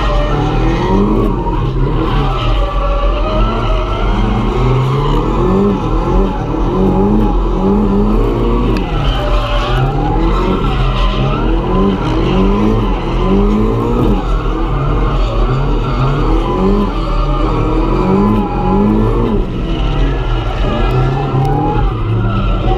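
Turbocharged SR20 engine of a Nissan 240SX (S13) drift car revving up and falling back over and over, about once every second or two, as the car is driven in a drift, with the tyres skidding.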